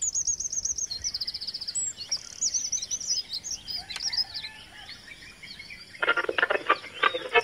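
Small birds chirping and trilling with quick repeated notes. About six seconds in, a loud crackling noise starts from a portable transistor radio being tuned and carries on.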